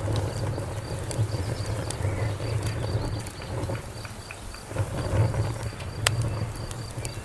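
Wood fire burning with a low rumble and scattered sharp crackles and pops, one louder pop about six seconds in. A high, evenly pulsed insect chirping runs behind it and fades out about five seconds in.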